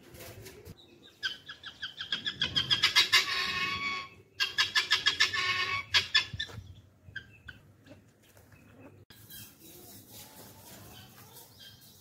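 Birds calling in two loud runs of rapid, repeated pitched notes, the first starting about a second in and the second right after a short break about four seconds in, followed by fainter, scattered calls.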